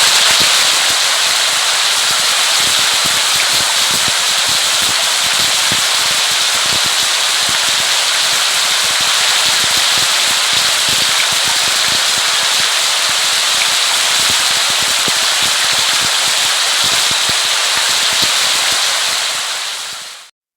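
Steady rain falling: a dense, even hiss full of small, sharp drop impacts. It fades out shortly before the end.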